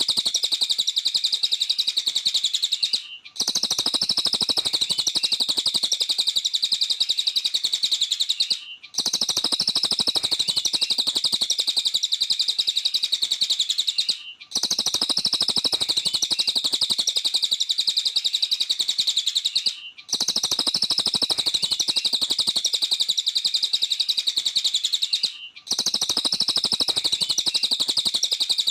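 Cililin songbird singing vigorously: a rapid, continuous high-pitched twittering song broken by a brief pause about every five and a half seconds.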